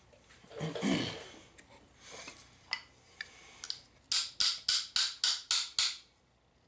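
Hand work on small metal gearbox parts: some handling and a few light clicks, then a run of about eight quick scraping strokes, roughly four a second, that stop about two seconds later.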